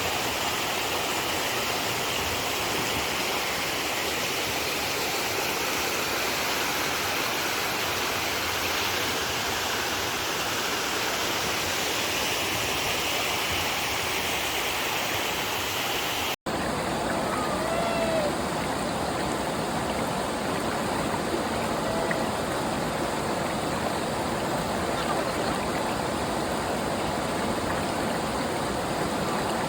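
Stream water running steadily in a constant rush. It breaks off for an instant about 16 seconds in and then carries on, with a few faint chirps over it.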